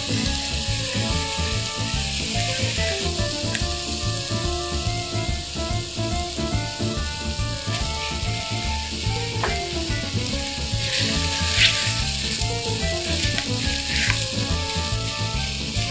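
Diced onion, carrot and mushroom frying in oil in an enamelled pot, a steady sizzle. The sizzle flares louder a couple of times in the second half as minced mutton is stirred in with a silicone spatula. Background music plays underneath.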